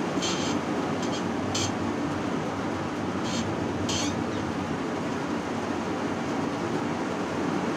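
Steady rumble and hiss of a vehicle driving in heavy rain, with a few short, high hissing bursts in the first four seconds.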